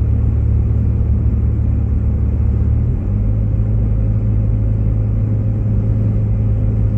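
Steady low rumble of a Jeep Grand Cherokee driving on a snow-covered road, heard from inside the cabin: engine and tyre drone. The low drone shifts in pitch about three seconds in.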